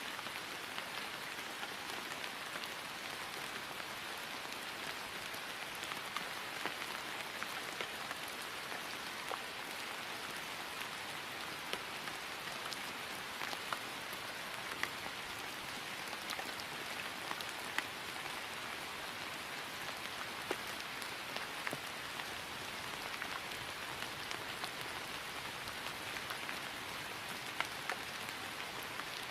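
Steady rain falling on grass: an even hiss with many scattered individual drop ticks.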